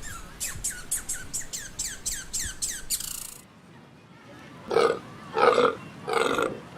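A rapid series of short, high bird chirps, each sweeping downward, about three a second, which stops abruptly. After a short pause, an animal gives three loud, rough calls about half a second each.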